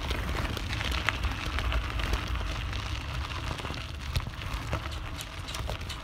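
Bicycle rolling over rough dirt ground, with irregular clicks and rattles and a steady low wind rumble on the handlebar-mounted phone's microphone.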